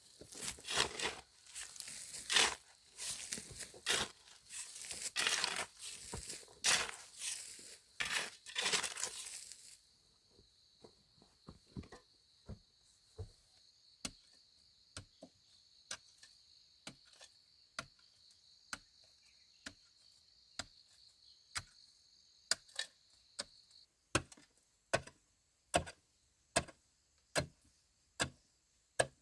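Tearing and crunching of plant material for about ten seconds, then a long run of evenly spaced sharp knocks of a hand tool on wood, about one and a half a second, louder over the last few seconds. A faint high steady whine runs under the middle of the knocking and stops near the end.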